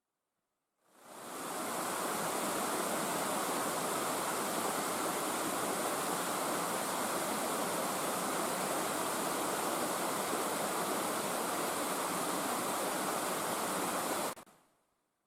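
Water rushing down a series of small cascades in a rocky gorge stream, a steady even rush that fades in about a second in and fades out near the end.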